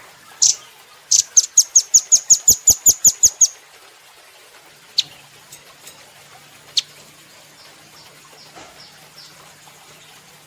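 Velvet-fronted nuthatch calling: one sharp high chip, then a fast run of about a dozen loud chips at roughly five a second, followed by a few single chips spaced out.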